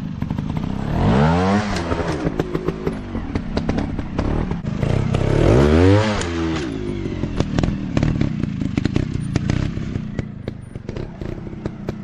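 Dirt bike engine revving hard twice, pitch rising then falling each time, about a second in and again around the middle, with clattering and knocks in between.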